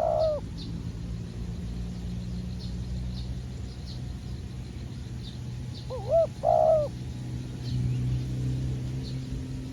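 Spotted dove cooing: a short phrase of low, hooked coos at the very start and again about six seconds in. Faint high chirps repeat throughout over a steady low rumble.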